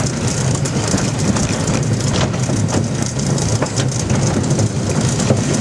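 1927 Vulcan steam locomotive running along the track, heard from its cab: a steady low rumble with many sharp clicks and rattles from the wheels and running gear.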